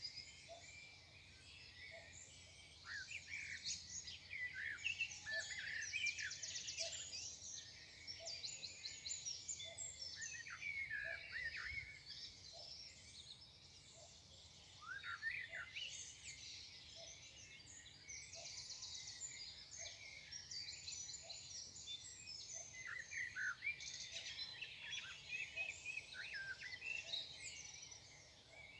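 Morning chorus of several songbirds: overlapping chirps, short whistles and fast buzzy trills, with a faint low note repeating about once a second underneath.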